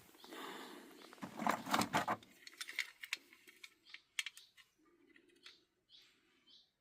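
Things being handled and moved: rustling, with scattered light clicks and clinks, loudest about one and a half to two seconds in, then thinning to occasional clicks.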